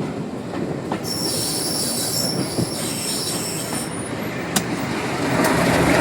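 Train running along the track, wheels rumbling, with a steady high-pitched wheel squeal from about a second in until about four seconds in and a few sharp clicks over rail joints.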